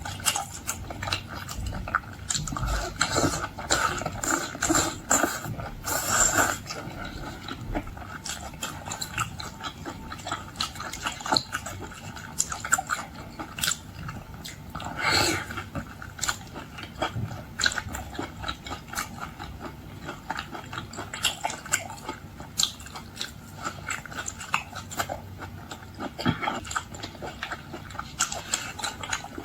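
A person chewing and smacking close to the microphone while eating arctic surf clam, with a dense run of irregular wet clicks and mouth noises.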